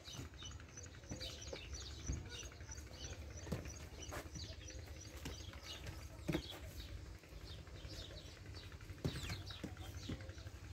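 Small birds chirping over and over in short, high, quickly falling notes, with a few sharp knocks, the loudest about six and nine seconds in.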